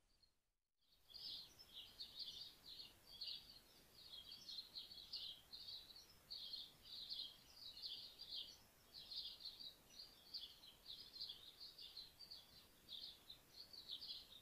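Garden bird chirping in a rapid, near-unbroken string of short high notes, starting about a second in after a brief silent gap, over a faint steady background hiss.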